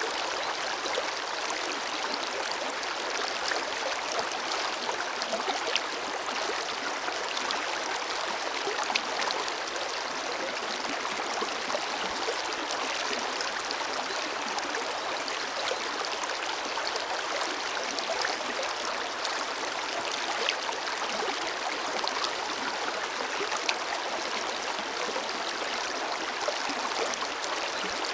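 Forest river flowing over rocks: a steady rushing and gurgling of water, with small splashes flecking through it.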